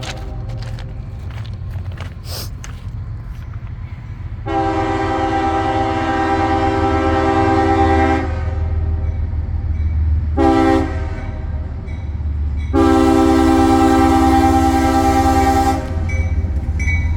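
Diesel locomotive air horn sounding a multi-note chord: a long blast, a short one, then another long one, the end of the long-long-short-long grade-crossing signal, over the steady low rumble of the locomotive.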